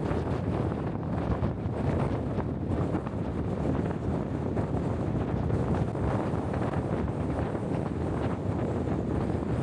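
Strong wind buffeting the microphone: a steady, gusty rumble.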